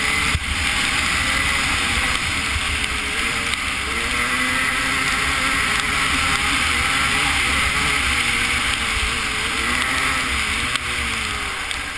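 250cc two-stroke motocross bike engine revving up and down as it rides, with heavy wind noise on the camera's microphone; the sound starts to fade near the end.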